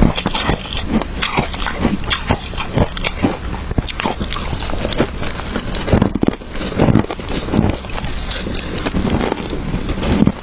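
Close-miked chewing of crunchy shaved ice: dense, irregular crunches and crackles, several a second.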